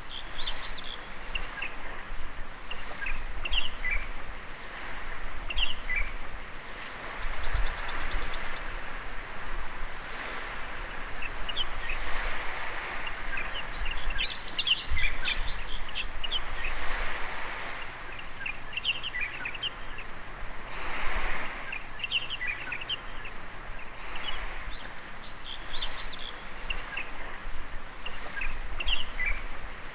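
Small waves washing on a sandy beach, swelling and fading every few seconds, with birds chirping and calling throughout and a quick trill about seven seconds in.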